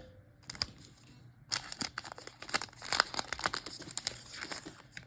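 Trading card pack wrapper crinkling and tearing as it is handled and opened, a run of irregular crackles.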